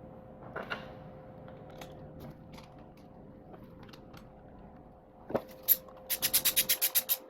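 Small workshop handling sounds: light ticks and a couple of knocks on metal parts. Near the end comes a fast, even run of rasping clicks, about ten a second, like a tool being worked back and forth.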